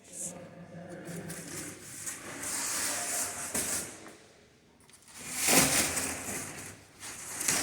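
Cut polystyrene (isopor) foam pieces being slid and pulled apart by hand, rubbing and scraping against each other in two stretches, the louder one about five seconds in.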